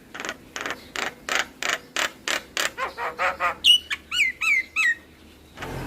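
Javan myna (jalak kebo) singing: a run of about a dozen harsh rasping notes that speed up, followed by four clear falling whistled notes.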